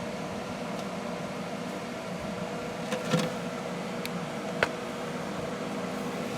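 A steady mechanical hum, with a few light clicks about three seconds in and again a little later.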